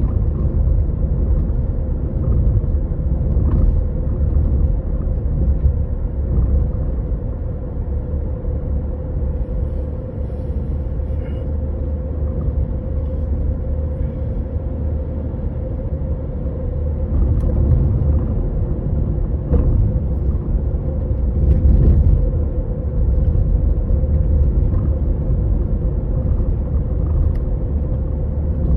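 Toyota Estima ACR55W under way: a steady low road rumble and hum, with faint short clicks now and then. This is the clatter from deep behind the steering that is the sign of a worn No. 2 steering intermediate shaft.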